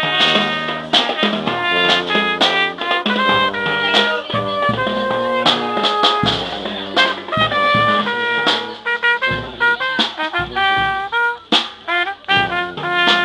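Brass band playing a tune: trumpets and trombones sounding held notes that change pitch, over steady drum strikes.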